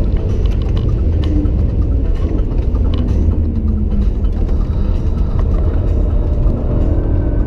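BMW M3 E92's V8 engine and road noise heard inside the cabin at speed. The engine note fades back into a dense low rumble, then comes back rising in pitch as the car accelerates near the end, with a few light clicks and rattles.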